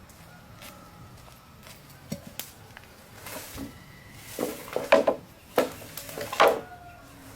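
Irregular chopping strikes on wood, a few light knocks first, then a run of louder, hollow-ringing blows in the second half.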